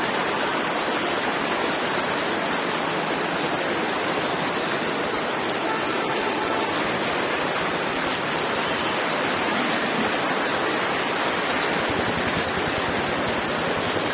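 Heavy rain falling, a steady, unbroken hiss of downpour.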